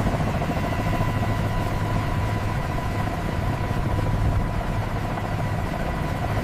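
A heavy engine running steadily: a loud, even drone with a deep hum underneath and a steady whine above it.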